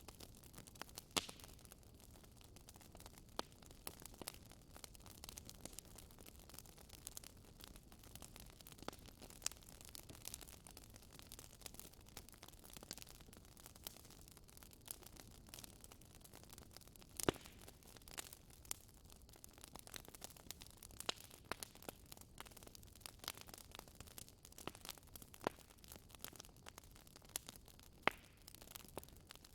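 Wood fire crackling: faint, irregular sharp pops and snaps over a low steady hiss, a few of them louder.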